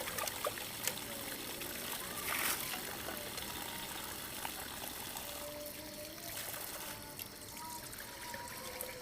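Water trickling steadily, with small drips and faint gurgling tones.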